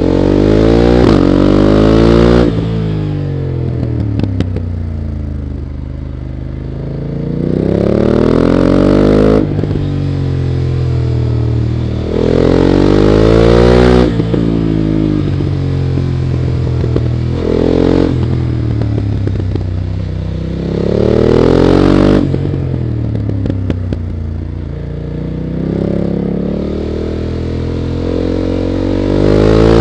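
BMW F 900 GS's parallel-twin engine revving hard up through the range and falling back again about every four seconds, as it accelerates down straights and shuts off into corners. Short sharp cracks come at several of the drops.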